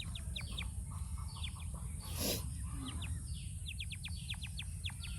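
Birds chirping in quick runs of short, sharply falling chirps, several a second, with a brief rustle a little after two seconds.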